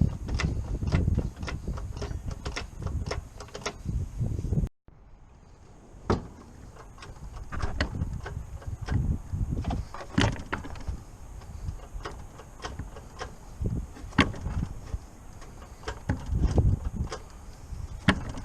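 Irregular clicks, clinks and knocks of work on a car, with a low rumble under the first few seconds. The sound cuts out abruptly about five seconds in, then the knocks and clicks go on over a quieter background.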